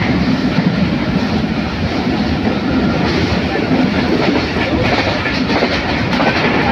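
Passenger train running at speed, heard from inside the carriage: a steady rumble of wheels on the rails, with a run of clicks in the second half.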